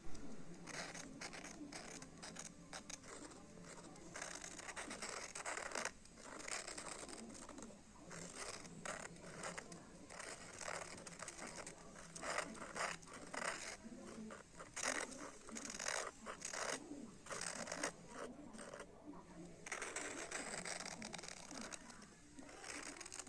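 Graphite pencil scratching on paper in many short, irregular sketching strokes.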